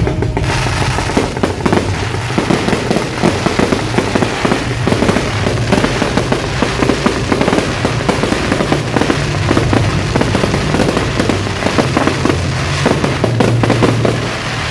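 Fireworks display: a dense, continuous run of rapid bangs and crackles, with music underneath.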